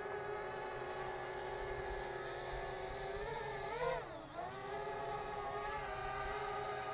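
Parrot Bebop 2 quadcopter's motors and propellers whining steadily in flight. About three seconds in, the pitch wavers upward, then dips sharply as the motors slow and climbs back to a steady whine.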